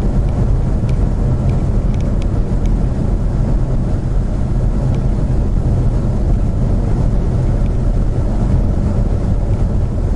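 Steady road and engine rumble heard inside a moving car's cabin, with a few faint ticks.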